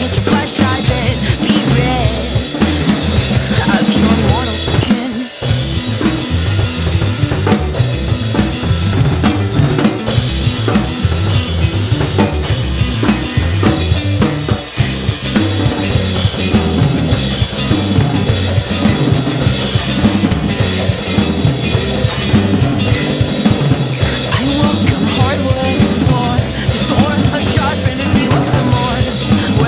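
Acoustic drum kit played live along with a recorded rock song, with bass drum, snare and rimshot hits over guitar and bass, picked up through a phone's microphone.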